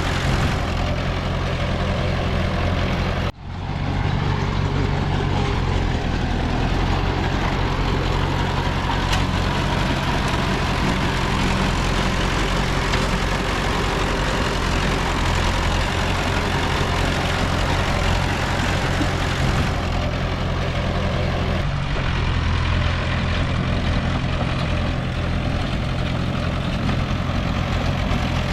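Heavy diesel engine of earthmoving machinery running steadily, with a brief dropout about three seconds in.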